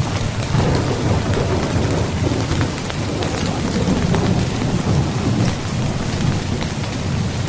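Rain falling on a tent, a steady hiss of drops with scattered sharper drop hits, over a continuous low rumble of thunder.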